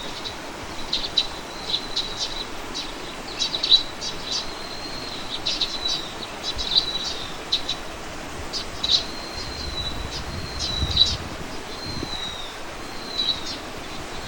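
Small songbirds chirping and calling over and over, quick high chirps mixed with short thin whistles, some sliding slightly down in pitch.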